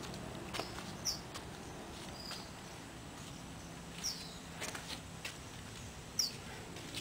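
A small bird chirping: three short, high, falling chirps a couple of seconds apart and one brief flat note, over a steady low background hum with a few faint clicks.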